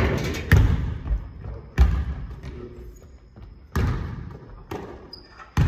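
A basketball dribbled on a gym floor: about six single, echoing bounces at uneven gaps.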